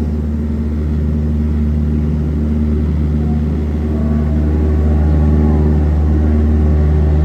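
Ride boat's engine running with a steady low hum that gets a little louder partway through.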